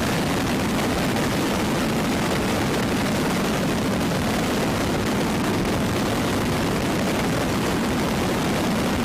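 Steady, unbroken noise of aircraft in flight during a helicopter's mid-air refuelling: engines and rotor running at a constant level, with no change in pitch.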